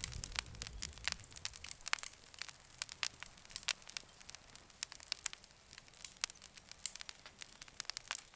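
Campfire crackling: irregular sharp pops and snaps of burning wood. The low rumble of the flames fades out about a second and a half in, leaving only the crackles.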